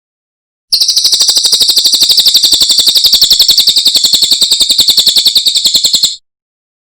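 Cililin bird singing one long, rapid, high trill of evenly repeated notes, about a dozen a second. It starts sharply under a second in and cuts off abruptly about five seconds later.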